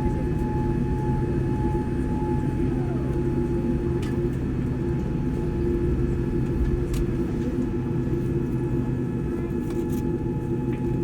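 Jet engines of a Boeing 787-9, heard from inside the cabin: a steady low rumble with several steady whining tones. One of the tones drops in pitch about three seconds in, as the engines ease back.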